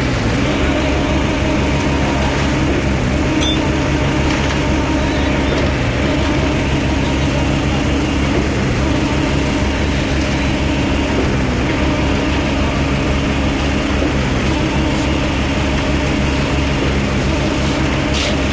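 Concrete mixer with pump running steadily: an even, unbroken machine drone with a low hum.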